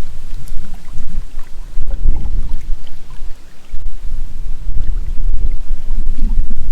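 Wind buffeting the camera microphone in loud, gusty low rumbles, easing briefly about halfway through. Faint small ticks of water or paddle sound come through underneath.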